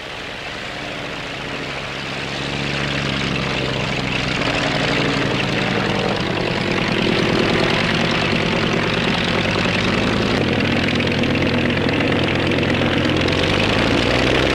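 Rolls-Royce Merlin V12 piston engine of a Cierva Air Horse helicopter running in a steady drone, growing louder over the first few seconds and then holding.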